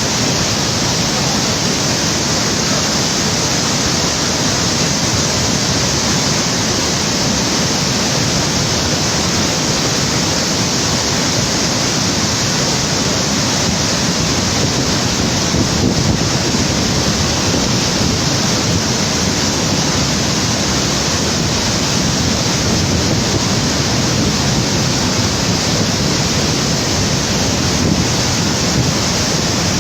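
Swollen floodwater river rushing: a loud, steady, unbroken noise of fast-moving water.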